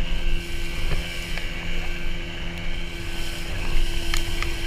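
Motorboat engine running at a steady speed: an even hum with a constant pitch, over a wash of noise.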